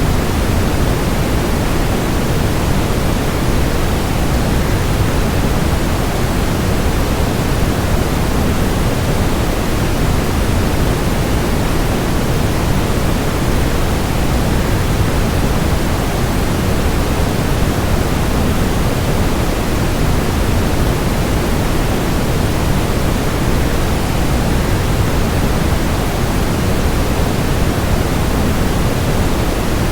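Steady, unchanging rushing noise, heaviest in the low end: a waterfall sound blended with white noise for relaxation.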